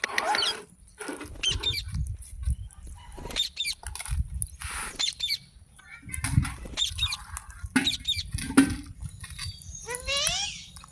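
Pet green parrot giving a run of short, sharp squawks and chattering calls, each bending in pitch. The calls are interspersed with low thuds.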